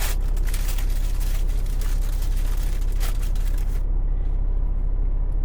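Semi truck's diesel engine idling, a steady low hum heard inside the cab, with a few brief crackles near the start and about three seconds in.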